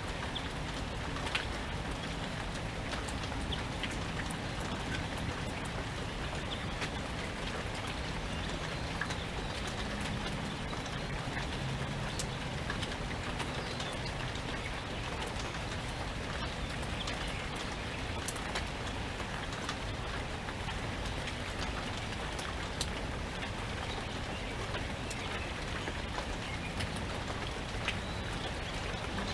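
Steady rain falling, with a constant hiss and many individual drops ticking sharply on surfaces.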